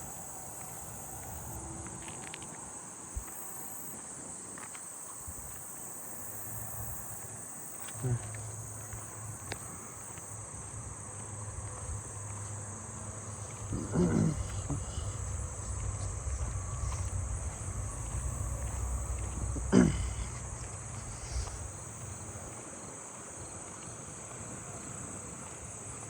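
Night insects, katydids and crickets, singing in a steady, high-pitched chorus. A low rumble builds through the middle, with two short louder sounds about fourteen and twenty seconds in.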